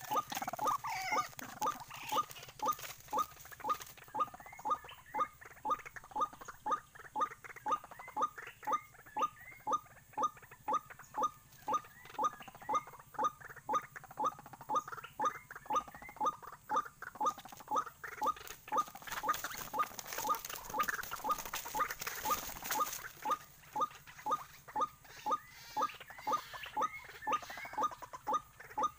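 White-breasted waterhen calls: a short rising note repeated steadily about twice a second, the typical ruak-ruak call used to lure the birds. A burst of rustling noise comes in about two-thirds of the way through.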